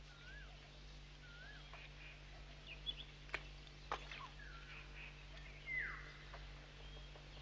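Faint outdoor ambience with birds calling now and then: short wavering whistles and one falling call about six seconds in. Two faint sharp clicks come around three and four seconds in, over a steady low hum.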